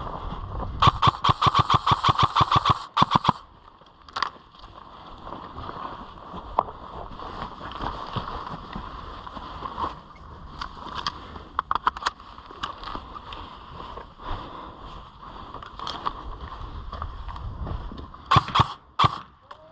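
Airsoft rifle firing full-auto in rapid bursts of shots. A long burst starts about a second in and lasts about two seconds, a shorter run comes around the middle, and another comes near the end.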